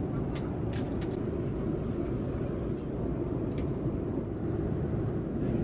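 Steady low rumbling background noise, with a few faint light clicks.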